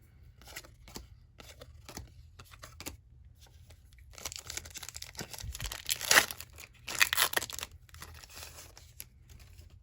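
A 1990-91 NBA Hoops basketball card pack's wrapper being torn open and crinkled, in two loud crackling spells about four and seven seconds in. Before and after them there are light ticks and rustles of cards being handled.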